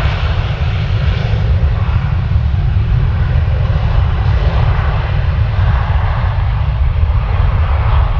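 Passenger jet engines heard on the runway: a loud, steady deep rumble with a hiss above it, the hiss easing slightly toward the end.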